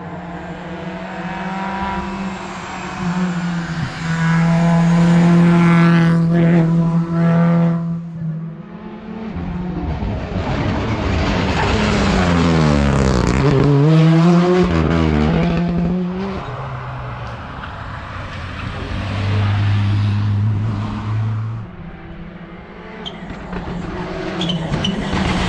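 Rally car engines at full throttle, passing on a special stage. The pitch holds, then drops and climbs again in quick steps through gear changes, swelling louder and fading as each car goes by.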